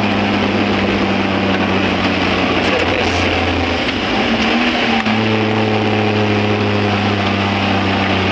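A vehicle's engine running while driving, heard from inside the cabin over a steady rush of road noise. The engine note wavers a few seconds in and picks up again at about five seconds.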